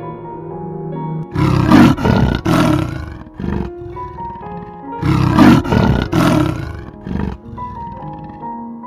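A large wild animal roaring, two loud bouts of several pulsing roars each, over soft background music with sustained keyboard notes.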